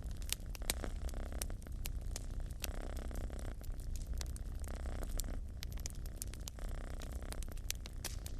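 Domestic cat purring steadily, the purr swelling and easing with each breath, over a wood fire crackling with frequent sharp pops.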